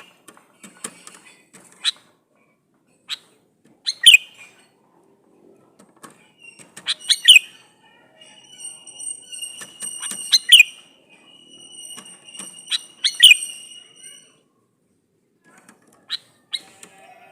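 Male sooty-headed bulbul (kutilang) calling in short, sharp chirping notes that come in clusters with gaps between them. A steady high tone runs under the calls for about six seconds in the middle.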